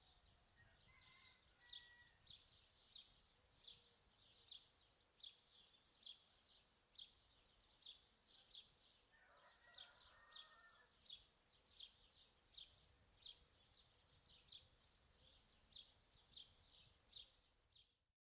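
Faint bird chirping: short high chirps repeated about three times a second, over a low background hiss.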